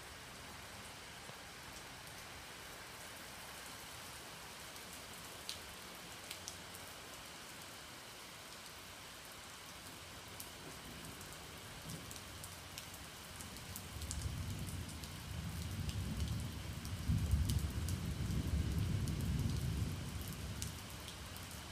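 Steady rain falling, with a few sharp drip ticks. About 14 seconds in, a long low roll of thunder builds, peaks and dies away over about six seconds.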